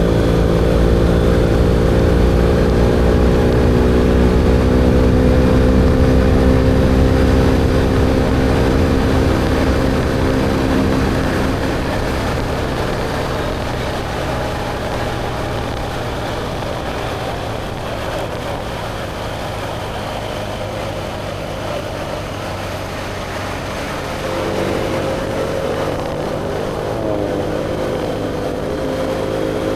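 BMW R1250GSA's boxer-twin engine running through an Akrapovic slip-on exhaust while riding. It pulls steadily for the first third, then the throttle eases off and the engine note fades under wind and road noise. Near the end the bike accelerates again and the exhaust note rises.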